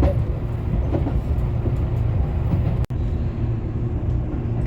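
Electric commuter train running on the rails: a steady low rumble with a faint motor hum and light clicks of the wheels. The sound drops out briefly about three seconds in.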